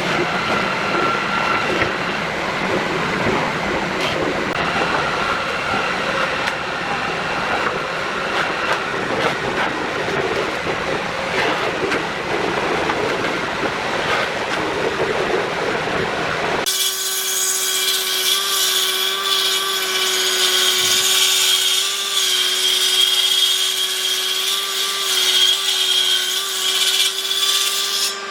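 Power tools working wood: a rough, grinding noise, then about 17 seconds in an abrupt change to a steady motor hum with a hiss above it.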